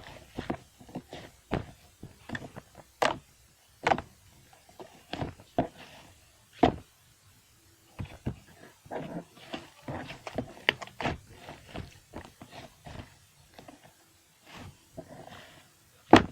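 Clay-mixed slime squished and pressed by hand, making irregular wet clicks and pops as air pockets burst.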